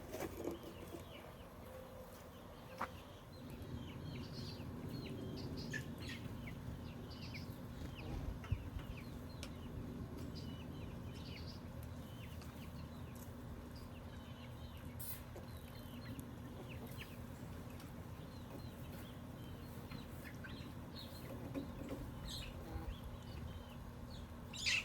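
Chickens clucking and peeping, faint, with many short high calls repeating throughout, over a low steady rumble and a few light clicks.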